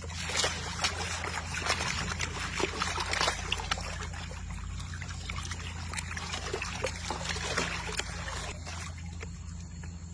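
Water sloshing and trickling in a gold pan, with many small clicks and scrapes of sand and gravel shifting in it, busiest in the first few seconds. A steady low hum runs underneath.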